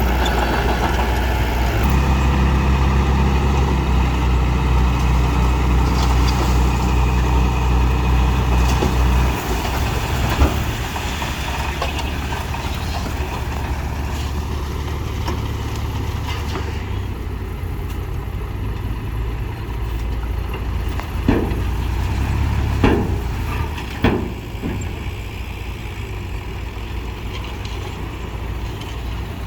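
Heavy diesel engine of earthmoving machinery running, steady and loud for the first nine seconds or so and then at a lower, rougher note. A few sharp clanks come about ten seconds in and again three times in the last third.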